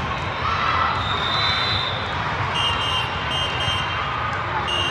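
Sports-hall crowd chatter during a volleyball match, a steady din of many voices, with brief high-pitched squeaks or whistle-like tones a few times.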